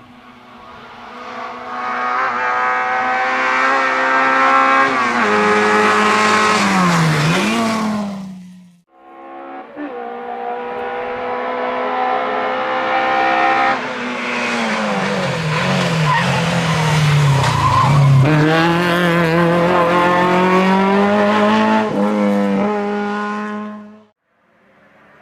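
Historic rally car engines at high revs, heard in two separate passes that begin and end abruptly. In each, the engine note holds high, then drops and climbs again as the car brakes for a corner and accelerates out.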